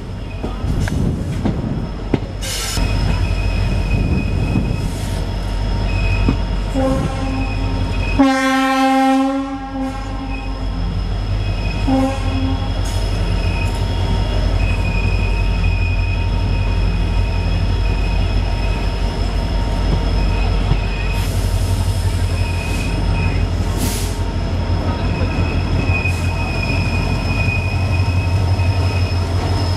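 Indian Railways passenger train slowing into a station: the coach rumbles low while the wheels and brakes give a high squeal on and off. A locomotive horn sounds loudly for over a second about eight seconds in, with brief shorter toots just before and after.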